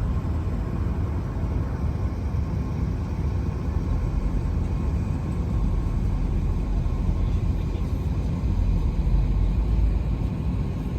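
Car driving at a steady pace: a low engine and road rumble.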